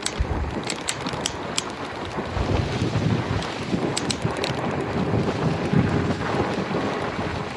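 Wind buffeting the microphone while riding an e-bike, a steady low rumble with a few sharp ticks near the start and again about four seconds in.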